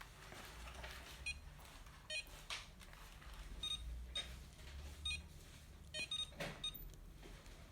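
A string of short plastic clicks and rattles, about seven over several seconds, from handling the robot vacuum's parts and accessories.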